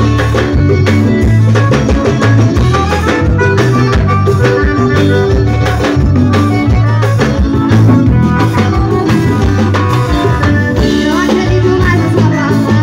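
Forró band music with drum kit, guitar and bass, playing continuously with a steady beat.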